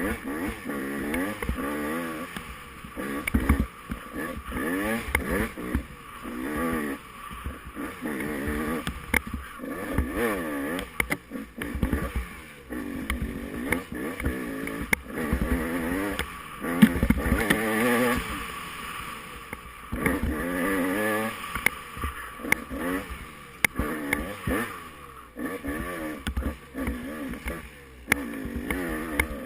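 Dirt bike engine racing off-road, revving up and dropping back again and again as the rider accelerates, shifts and brakes, with frequent short knocks and clatter.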